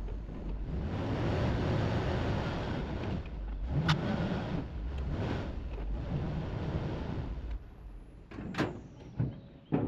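A vehicle running with a steady rumble and wind noise, with a sharp click about four seconds in. The rumble drops away about seven and a half seconds in, and a few knocks follow, the loudest near the end, like a door or the bed being handled.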